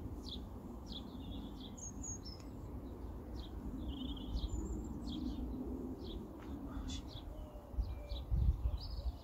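Birds singing: a quick run of short chirps and whistles over a low, steady rumble.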